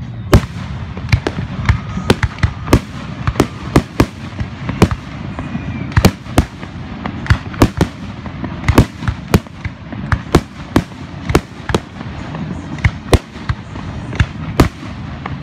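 Fireworks going off in quick, irregular succession: a steady run of sharp bangs, several a second, with a few faint whistles among them.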